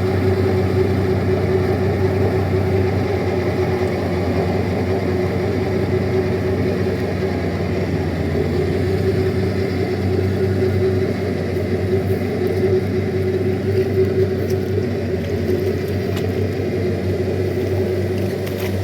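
Paddy-field tractor engine running steadily at a constant speed.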